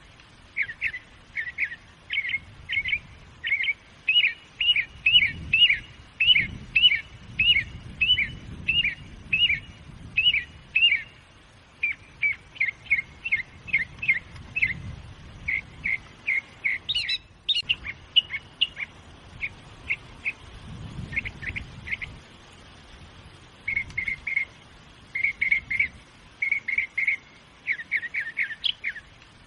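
A songbird chirping over and over: short, sharp chirps repeated several times a second in runs with brief pauses, over a faint low background rumble.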